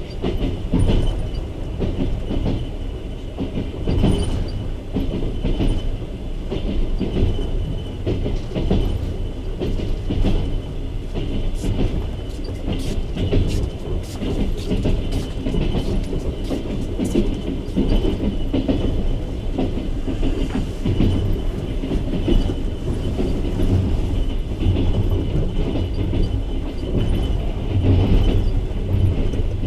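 Passenger coach of a moving express train heard from its window: steady rumble of the wheels on the track, with a run of sharp clicks about midway as the wheels pass over rail joints.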